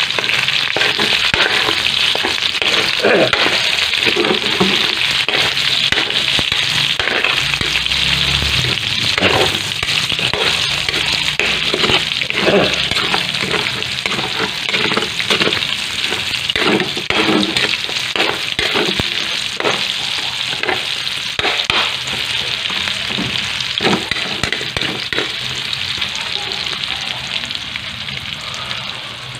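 Garlic, onion, ginger and chicken pieces sizzling in hot oil in a large metal pot, with a metal ladle scraping and knocking against the pot as they are stirred. The sizzle eases slightly near the end.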